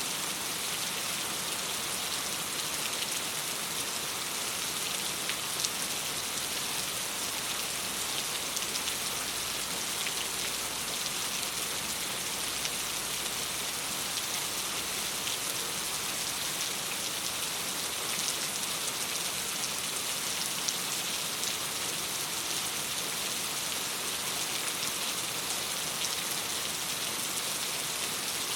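Steady rain pattering on a window pane, an even hiss with many small drop ticks.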